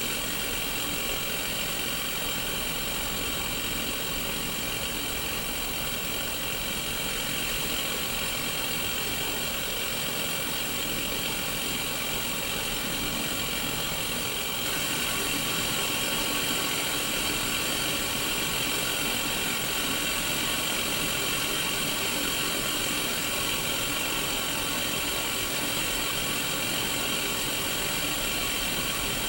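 Static hiss from a Sony Mega Watchman black-and-white mini CRT TV's speaker, tuned to an empty channel: a steady, even rush of white noise that grows slightly louder about halfway through.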